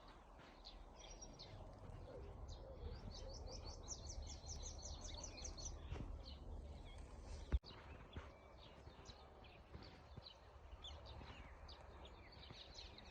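Birds chirping, with many short high chirps and a quick run of about a dozen in a row a few seconds in, over a faint low rumble. A single sharp click sounds about halfway through.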